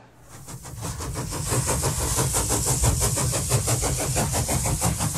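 A train chugging in quick, even beats over a steady hiss, coming in suddenly at a cut and building up within the first second.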